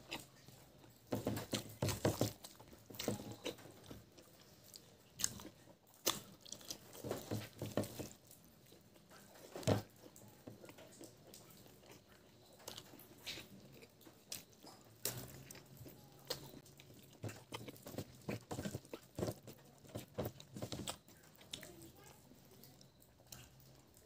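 Close-up chewing of pork innards and rice: irregular wet mouth smacks and clicks in clusters, with short pauses between mouthfuls.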